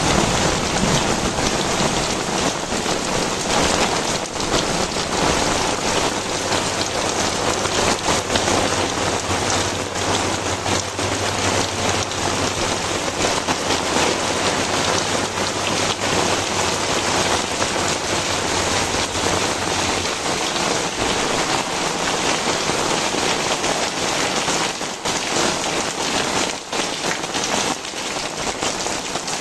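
Very heavy rain pouring steadily, a dense hiss of drops striking the ground and surfaces. A low rumble runs underneath and dies away about two-thirds of the way through.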